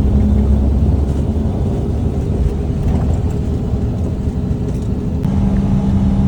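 Truck driving, its engine and the road making a heavy, continuous low rumble. A steadier engine tone comes through more clearly about five seconds in.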